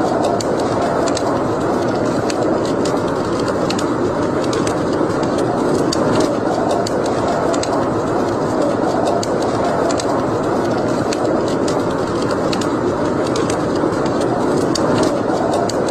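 Wood fire burning in a fireplace: a steady rush of flames with many small, irregular crackles and pops.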